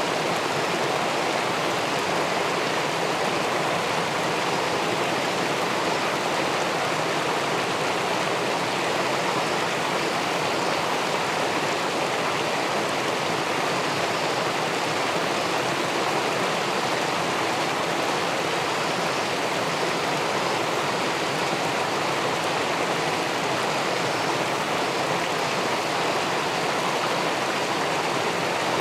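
Steady rush of river water spilling over a small weir into the pool below, heard through a camera submerged in the pool.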